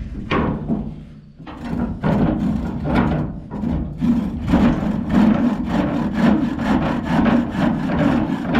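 Hand saw cutting through a downed tree limb: a quick, even run of back-and-forth strokes, about four a second, picking up again after a brief pause about a second in.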